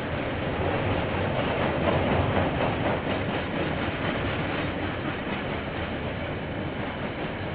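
Freight train of container wagons rolling past, a steady rumble of wheels on the rails, swelling a little about two seconds in. Heard through a security camera's microphone.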